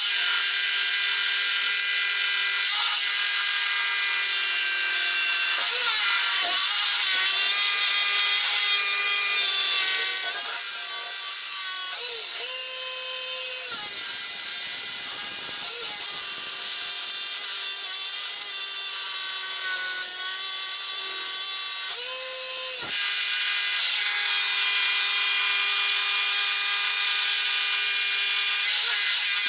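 Electric rotary hammer drill boring into concrete, a steady loud motor whine over a gritty hiss. The whine jumps up in pitch briefly twice, about halfway and again near three quarters of the way through, and the sound is a little quieter through the middle stretch.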